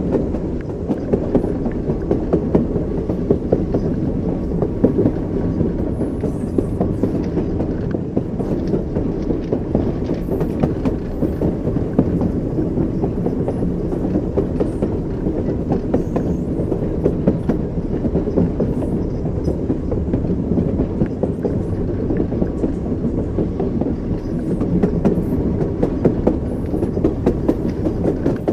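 Train wheels clacking over rail joints, with the steady rumble of a moving railway car.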